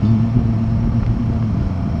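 Royal Enfield Himalayan 450's single-cylinder engine running at a steady speed under way, a constant low drone.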